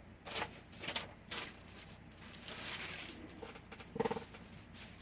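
Paper and craft pieces being shuffled and moved about on a work table in a search: a few light taps and knocks, then a short slide of paper. About four seconds in comes a brief, low pulsing hum.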